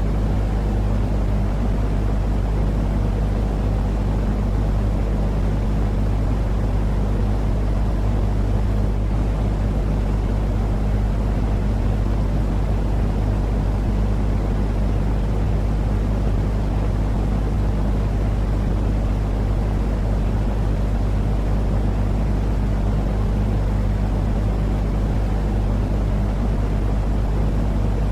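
Steady low rumbling noise with a constant hum under it, unchanging throughout. This is a continuous white-noise-style sleep sound meant to calm a crying, colicky baby.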